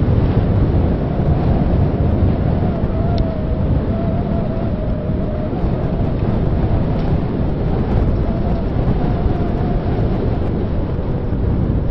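Wind buffeting the microphone of a handheld Zoom Q3 recorder on a moving bicycle: a steady, dense low rumble. A faint wavering whine comes and goes over it.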